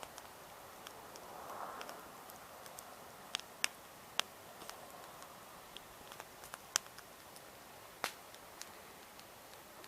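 Wood campfire crackling: irregular sharp pops and snaps of burning wood over a soft steady hiss of flame, with a few louder cracks in the middle and near the end.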